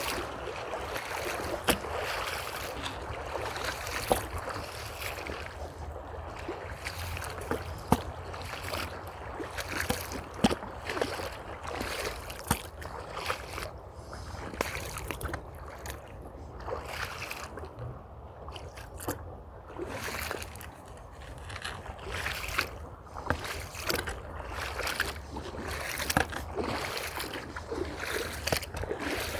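Footsteps on a trail at a steady walking pace, with a creek's flowing water underneath.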